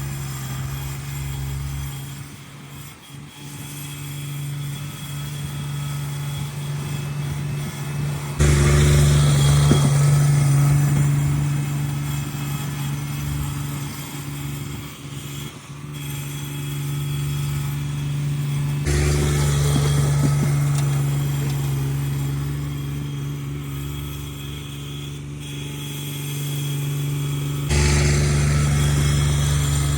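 Cub Cadet 1782 garden tractor engine running steadily while plowing snow with a front blade, its level jumping suddenly louder three times: about a third of the way in, around two-thirds, and near the end.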